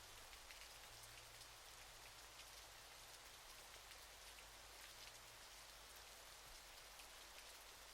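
Faint, steady rush of falling water from a waterfall: an even hiss flecked with tiny splashes, close to the sound of rain.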